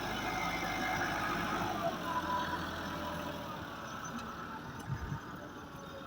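Tractor engine running steadily; its deep rumble fades about three and a half seconds in.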